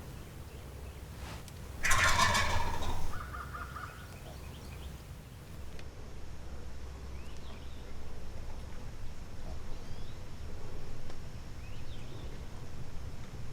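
Osceola wild turkey gobbler gobbling once, loud, about two seconds in, followed straight after by a brief run of rapid notes. Faint small-bird chirps sound afterwards.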